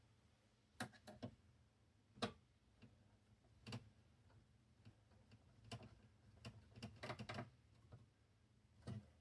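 Faint, irregular clicks and taps of small parts and tools being handled during reassembly, with a quicker run of clicks around two-thirds of the way through.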